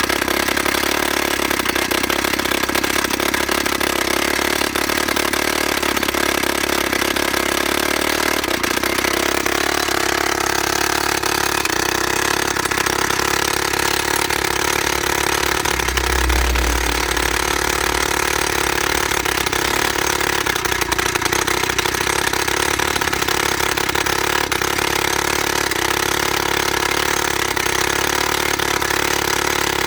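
YN30A mini rock drill's two-stroke petrol engine running steadily at speed, its note shifting slightly higher about ten seconds in.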